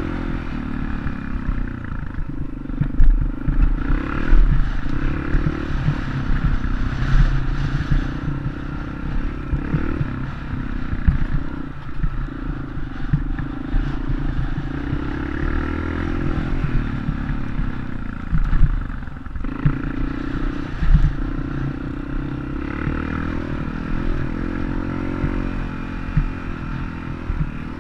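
Dirt bike engine running steadily, with rattling and occasional sharp knocks.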